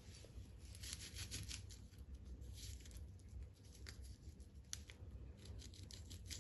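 Ginger and garlic being rubbed on a grater plate: faint, irregular rasping strokes as the paste is made.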